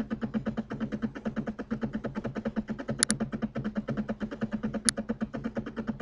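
Computer mouse clicks, a quick double click about halfway through and a single click near the end, over a steady buzzing hum that pulses about seven times a second.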